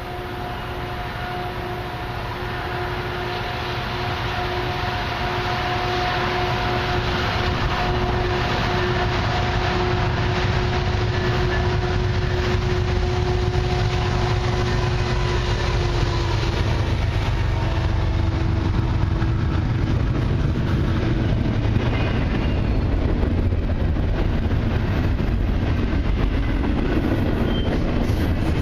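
Long CN freight train led by two diesel locomotives approaching and passing, growing louder over the first several seconds, then a steady heavy rumble of the rolling train. A steady tone over the rumble drops out about two-thirds of the way through.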